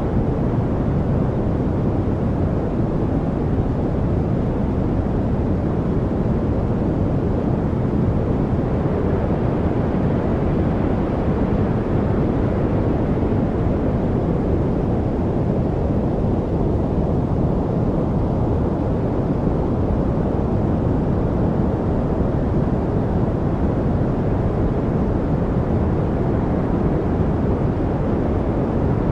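Steady, deep noise of the kind played as a study aid. It is a constant, unchanging rush weighted toward the low end, darker than true white noise.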